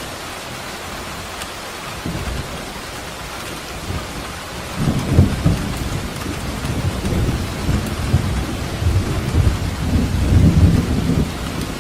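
Steady rain falling, with a long roll of thunder under it. The rumble comes in about two seconds in, swells loudly around five seconds, rolls on with a second peak near the end, then dies away.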